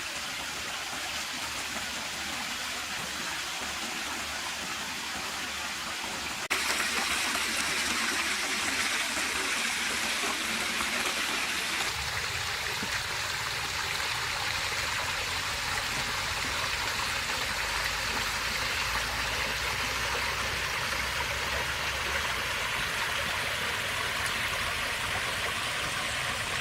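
Water pouring steadily from a small artificial waterfall into a pool. The sound steps suddenly louder about six seconds in and shifts again about twelve seconds in.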